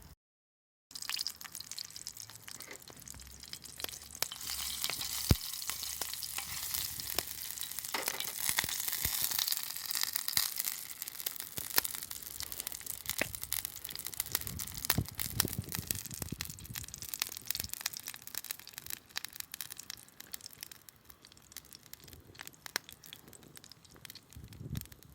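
Food sizzling and spitting in a hot pan over a campfire. It sets in abruptly about a second in, is loudest in the first several seconds, and dies down toward the end.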